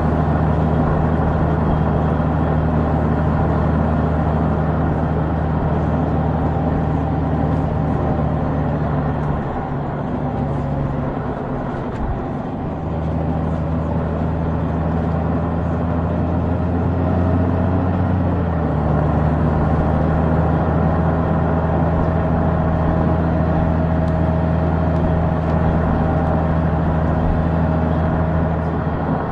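A Honda Goldwing's flat-six engine running at a steady road speed over a haze of road and wind noise. The engine note eases off about ten seconds in, picks up again, then steps down in pitch around eighteen seconds in.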